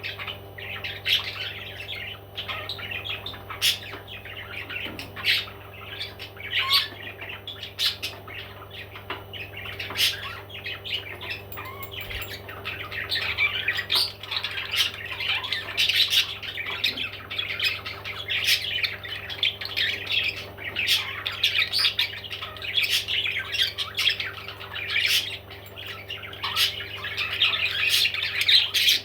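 Parrots squawking and chirping continually, a dense stream of short harsh calls with sharp clicks, over a steady low hum.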